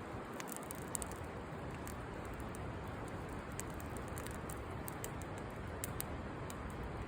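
Campfire burning, the wood crackling with many small, sharp pops over a steady hiss.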